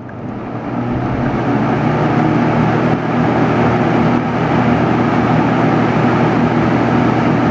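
JCPenney 9700 box fan (a Lakewood P223 design with a McMillan motor) spinning up to high speed, levelling off about a second and a half in, then running steadily with a low motor hum under the rush of air.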